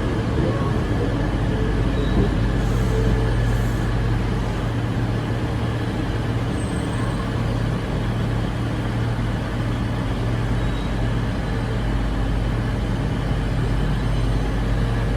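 Diesel train engine idling steadily at the platform: a constant low hum that does not change.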